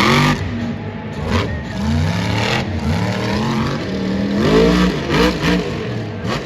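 Monster truck's supercharged, alcohol-burning engine revving up and down over and over, with a run of quick throttle blips about two-thirds of the way through.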